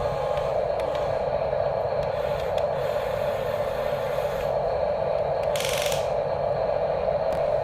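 Electric motors and plastic gearboxes of radio-controlled construction models running with a steady whirring drone, and a brief hiss about three-quarters of the way through.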